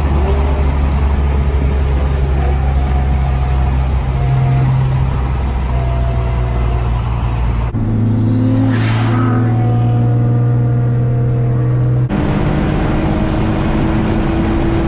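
Infiniti G35's V6 engine droning at highway cruise, heard from inside the cabin. Its pitch changes abruptly about 8 and 12 seconds in, with a brief whoosh about 9 seconds in.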